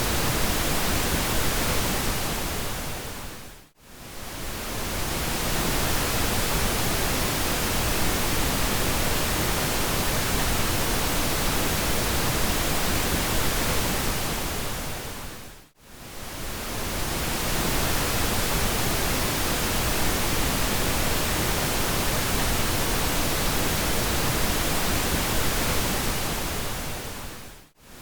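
Steady pink noise, an even hiss across all pitches. It fades out to near silence and back in three times, about twelve seconds apart.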